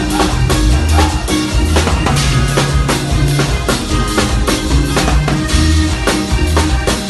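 Live band playing an instrumental passage: a drum kit with bass drum and snare beating steadily over a bass line, with no singing.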